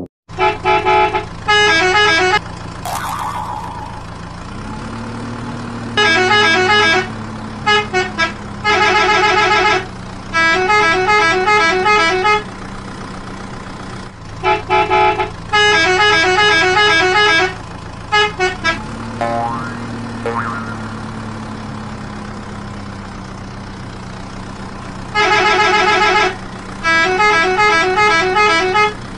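Vehicle horn honking over and over, long held blasts alternating with quick runs of toots, over a steady engine hum that rises in pitch twice and slowly settles.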